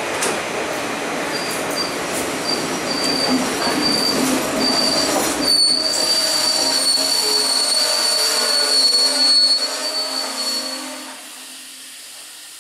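Passenger train braking to a stop at a platform: steady rolling rumble with a high squeal from the wheels and brakes. The squeal comes and goes at first, then holds steady for several seconds. Near the end the train halts and the noise falls away.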